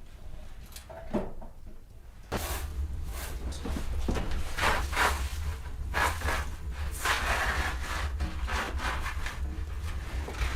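A few wooden knocks, then from about two seconds in a handsaw cutting wood in uneven rasping strokes, over a steady low rumble.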